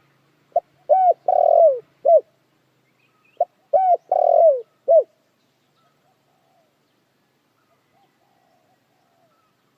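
Spotted dove cooing: two phrases about three seconds apart, each a few short coos around a longer, falling middle note, then only faint chirps near the end.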